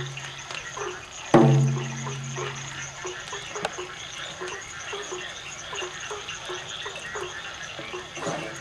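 A shaman's drum, warmed at the fire to tighten its head, is struck once about a second in and rings with a deep tone for under two seconds. Behind it, short croak-like calls, likely frogs, repeat steadily.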